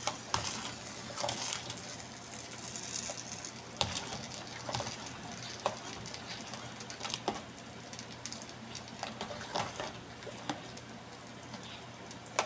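Spoon stirring a pot of chicken asado sauce, knocking lightly against the pot at irregular moments over a steady low hiss.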